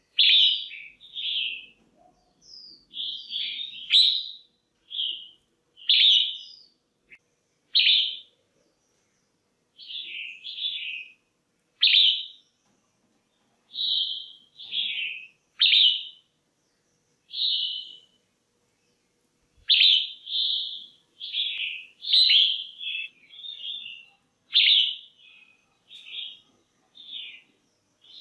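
Female red-whiskered bulbul calling: short, chirpy phrases of two or three quick notes, repeated every second or two with brief pauses between.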